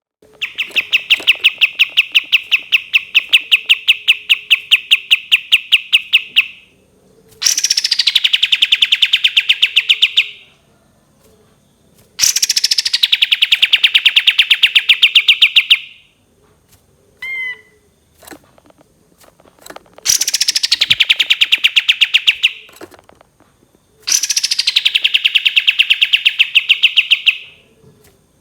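Kapas tembak songbird singing its long rapid-fire trills: five loud bursts of quickly repeated notes, each a few seconds long with short pauses between, most opening with a quick downward sweep, and a few short chirps in one of the gaps.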